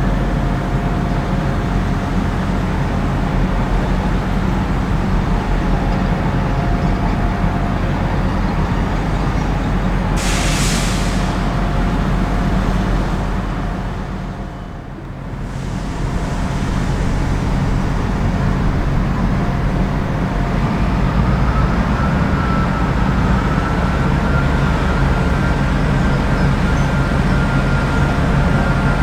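Diesel train engine running steadily at a station, with a short hiss of air about ten seconds in and a brief dip in the engine sound a few seconds later.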